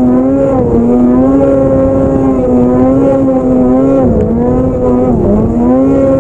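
Snowmobile engine running hard at high revs, its pitch dipping briefly and climbing back about four times as the throttle is eased and reopened.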